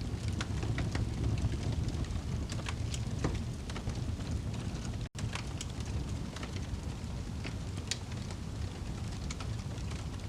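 Log fire burning in a fireplace: a steady low rush of flames with irregular crackles and sharp pops from the burning wood. The sound cuts out for a split second about halfway through.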